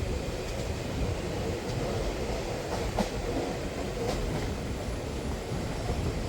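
Express passenger train running past on a curved stretch of track: a steady rolling rumble, with a few sharp clicks of wheels over rail joints about three and four seconds in.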